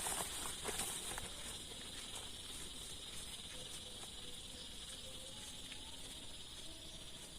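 Insects trilling in a steady, high, even chorus, with a few light taps and patter in the first second or so.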